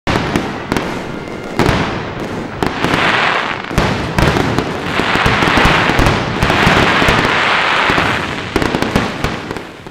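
Aerial fireworks going off: a run of sharp bangs from shells bursting, with long stretches of dense crackling about three seconds in and again from about five to eight seconds in, dying down near the end.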